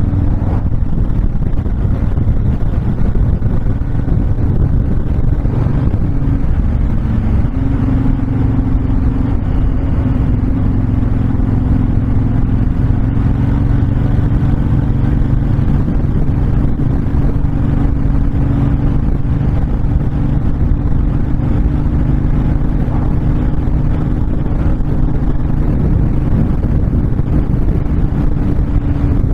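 Honda VTX1300 V-twin cruiser engine running at a steady highway cruise, with heavy wind rushing over the microphone. The engine note rises a little about seven seconds in and then holds steady.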